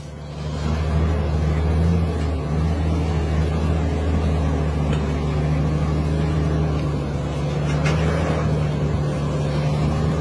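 Loaded heavy truck's diesel engine pulling steadily under load up a steep grade: a deep, steady drone that builds over the first second, then holds.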